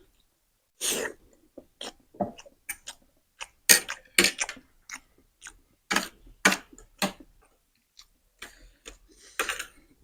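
Chewing on a mouthful of spicy noodles: irregular wet smacks and clicks of the mouth.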